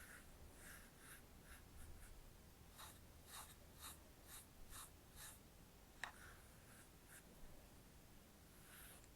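Faint, soft scratchy strokes of a makeup brush working eyeshadow, with a quicker run of about six strokes, roughly two a second, a few seconds in, and one small sharp click a little past the middle.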